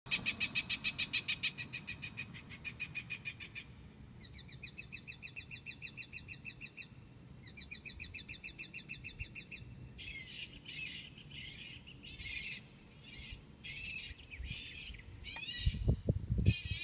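Recorded bird calls played over loudspeakers on a cell tower. First come several series of rapid, evenly repeated chirps, then harsher scratchy calls from about ten seconds in, with a few low thumps near the end.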